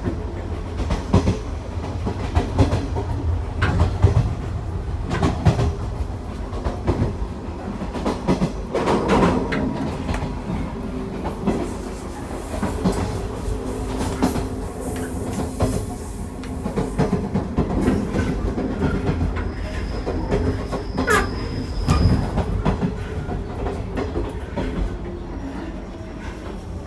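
415 series electric train running, heard from inside the car: a steady low rumble with irregular knocks and rattles as the wheels pass over the track.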